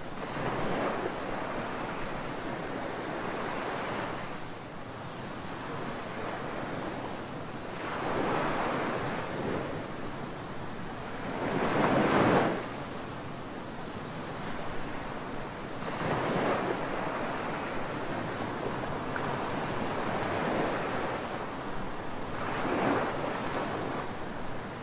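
Ocean surf breaking on a beach: a steady wash of water with waves surging every few seconds, the loudest about halfway through.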